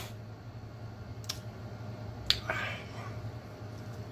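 Man chewing canned Vienna sausages with his mouth closed, making wet lip-smacking clicks: two sharp clicks about one and two seconds in, the second followed by a short hiss, over a low steady hum.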